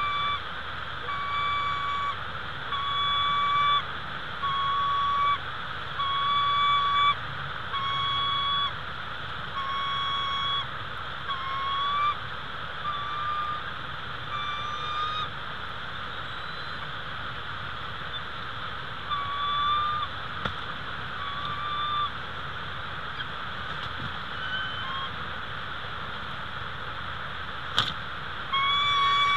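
A bird calling in short, clear, even-pitched notes, about one a second for the first half, then fewer and fainter, with another near the end, over a steady hiss.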